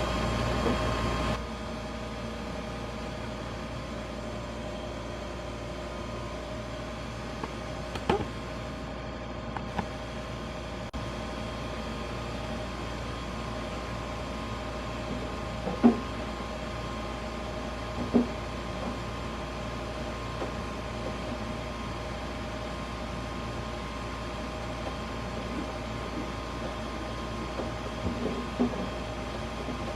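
Steady machine hum from a Manitowoc ice machine, with a few held tones in it. The hum drops to a lower level about a second and a half in, and a handful of short knocks and clunks of parts being handled come through it.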